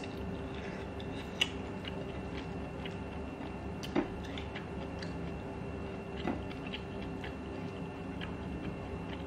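Close-up chewing and wet mouth sounds of a person eating by hand, with scattered small clicks and a couple of sharper clicks, the loudest about 4 seconds in, over a steady low hum.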